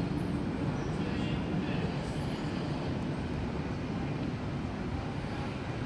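Sydney Trains S-set electric train (S135) arriving at a platform: a steady, even rumble with no sharp sounds.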